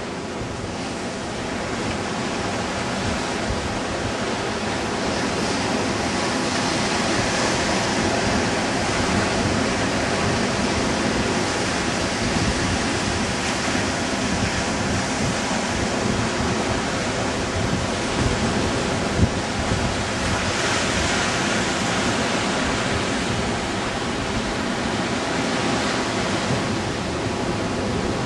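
Steady rush of ocean surf with wind, the wind buffeting the microphone in gusts.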